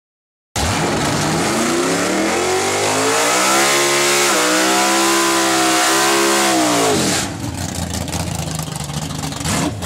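Car engine revving hard: it cuts in abruptly, climbs in pitch for about three seconds, holds high for a few seconds, then drops back about seven seconds in to a lower, rougher running sound.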